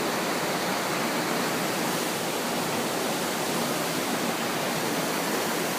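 Steady rush of fast-flowing floodwater from a creek swollen far over its banks.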